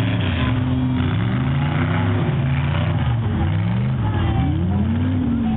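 Mega truck's big engine revving, its pitch climbing and dropping several times.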